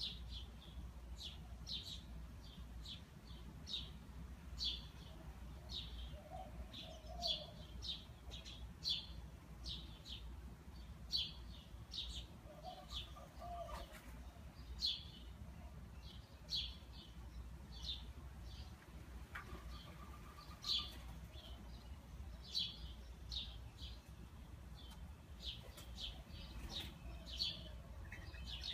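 Small birds chirping: short, high chirps repeated every half second to a second, with now and then a lower call, over a steady low background hum.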